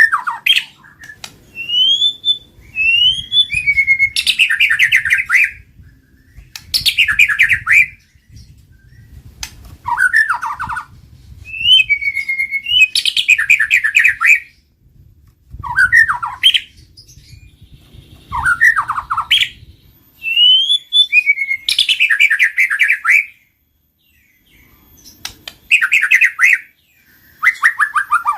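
White-rumped shama (murai batu) singing in loud phrases every few seconds, each a rising whistle or downward slur followed by a rapid run of chattering notes.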